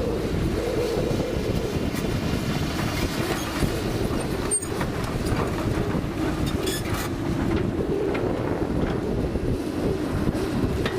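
Komatsu PC200 hydraulic excavator's diesel engine running steadily under working load, with a few sharp metallic clanks about four and a half seconds in and again around seven seconds.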